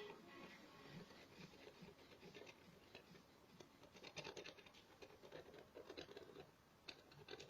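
Faint, irregular scratching of a permanent marker drawing short strokes on a cardboard milk carton.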